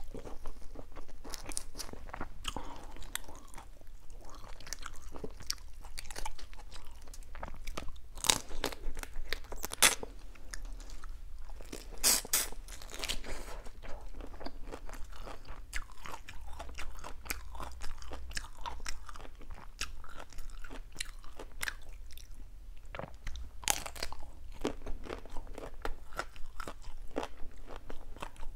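Close-miked chewing and crunching of grilled shrimp: steady biting and mouth sounds, with louder crunches about eight, ten, twelve and twenty-four seconds in.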